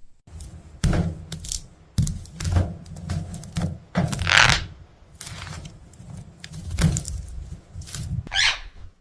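Parrot moving about inside a tree-cavity nest: irregular scrapes, clicks and knocks against the wood, with a harsh call about four seconds in and another, falling in pitch, near the end.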